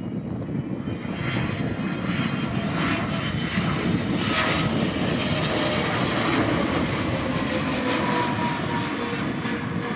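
Jet airliner passing by, its engine noise building over the first seconds, then holding steady while its whining tones slide down in pitch as it goes past.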